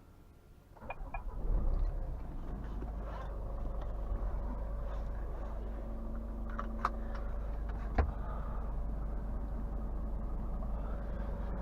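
Scania R450's 13-litre six-cylinder diesel engine and cab noise heard from the driver's seat: the sound comes up quickly about a second in, then runs as a steady low rumble. A few short clicks stand out over it.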